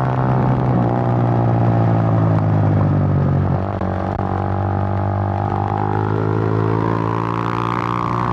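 Suzuki GN125's single-cylinder four-stroke engine running at steady road revs under way, a steady drone. About three and a half seconds in, its pitch and level drop a little as the throttle eases, then hold.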